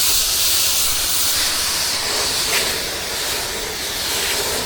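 Pressure washer wand spraying a steady hiss of water and cleaning solution onto a house's screen.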